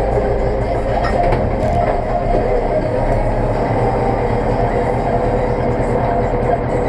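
Zetor tractor's diesel engine running steadily under load, a loud continuous drone with a low hum that shifts slightly about a second in.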